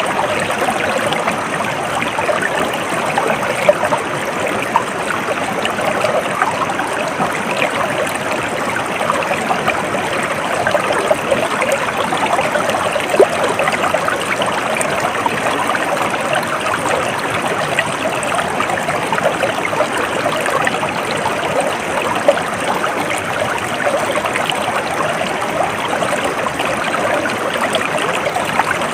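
Water flowing in a stream, a steady trickling and gurgling rush with small splashes now and then.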